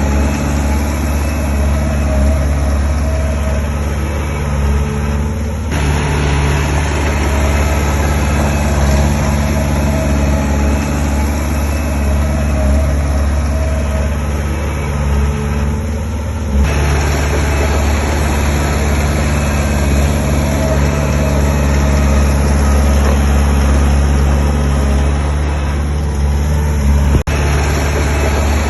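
Heavy diesel engine of earthmoving machinery running steadily at a low, even pitch. The tone shifts abruptly twice, and a sharp click comes near the end.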